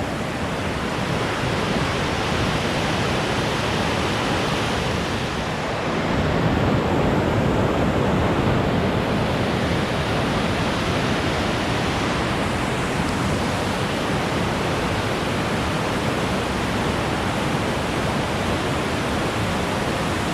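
Steady rush of fast-flowing glacial river water, a dense, even hiss that gets a little louder about six seconds in.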